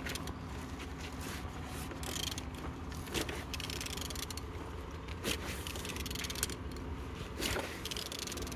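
A 39V50 engine being turned over by hand: a quiet mechanical scraping with a few sharp clicks. It turns freely, a sign that the engine is not seized.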